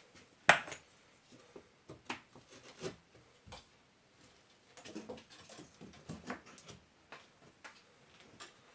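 Scattered knocks, clicks and light scrapes from brick facing tiles being handled and pressed into glue, with one sharp knock about half a second in.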